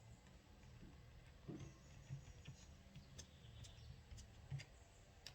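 Faint, scattered small metallic clicks and ticks as bolts are fitted by hand to a Chevrolet starter motor, over a low steady background hum.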